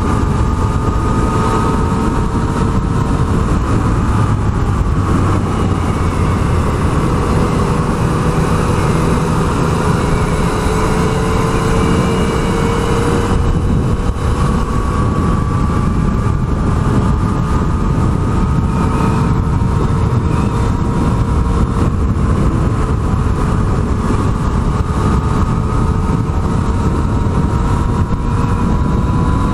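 Yamaha MT-09's three-cylinder engine running at a steady cruise, its pitch drifting slowly up and down, under heavy wind rush on the microphone.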